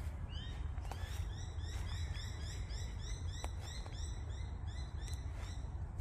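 Small birds chirping in a steady run of short, high notes, about four a second, over a low steady rumble, with a few footsteps on dry leaf litter.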